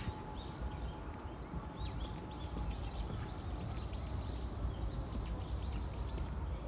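Small birds chirping in quick runs of short, high notes from about two seconds in, over a steady low background rumble.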